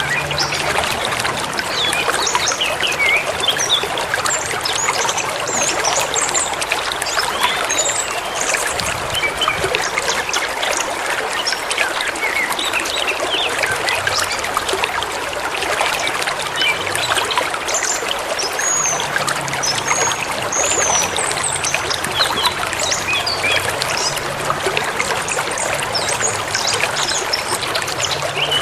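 Forest river babbling and rushing steadily, with small birds chirping and twittering over it in short scattered calls.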